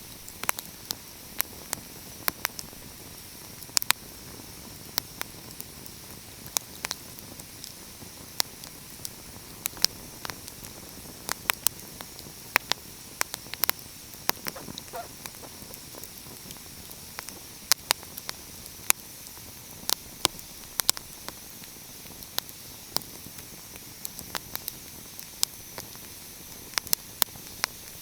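Wood fire crackling: irregular sharp pops, often one or two a second and sometimes in quick clusters, over a steady soft hiss.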